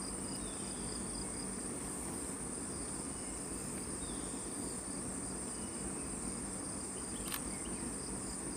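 Steady high-pitched insect chorus of forest crickets, a constant shrill drone over faint background hiss, with one small click about seven seconds in.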